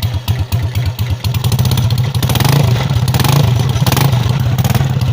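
Italika motorcycle engine running through a bare elbow pipe instead of a muffler. It idles with an uneven pulsing beat, then from about two seconds in is revved in several quick throttle blips.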